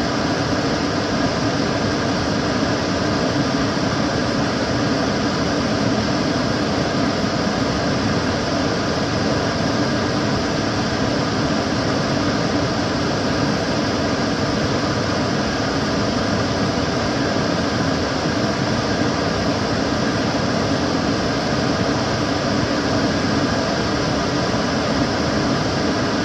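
Kitchen cooker hood extractor fan running steadily: an even rush of air with a faint steady hum and no change in speed.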